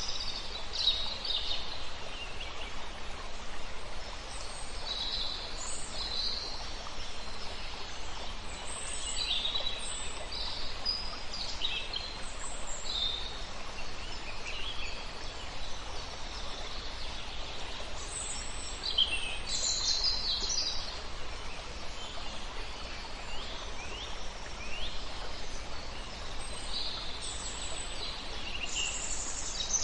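Several songbirds singing and calling at once, short chirps and quick trills scattered throughout, over a steady background hiss.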